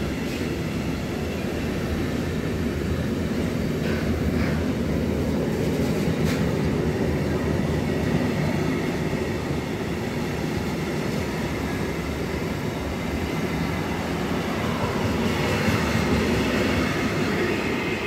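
Freight train of container flat wagons rolling past: a steady rumble of steel wheels on the rails, with a few short high-pitched squeaks about four and six seconds in.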